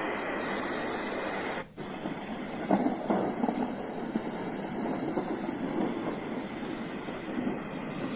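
White noise machine's speaker playing a steady white-noise hiss. It cuts out briefly after about a second and a half and switches to another track: a noisy, uneven rumbling soundscape.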